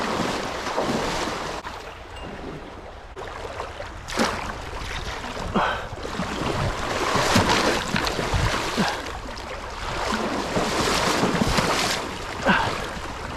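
Wind buffeting the microphone over the steady rush of a fast-flowing river, the noise swelling and easing.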